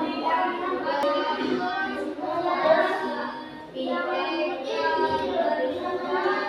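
A class of young children reading a text aloud together in Indonesian, their many voices chanting in unison in a sing-song way, with a short pause about three and a half seconds in.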